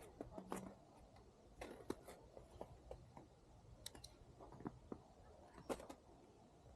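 Faint, scattered clicks and taps, about one every second, over quiet outdoor background.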